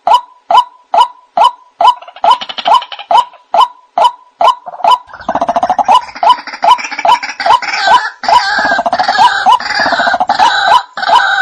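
White-breasted waterhen (ruak-ruak) calling, a steady run of short, loud honking notes about two to three a second. From about five seconds in, a denser, harsher chorus of calls joins over them and eases off near the end.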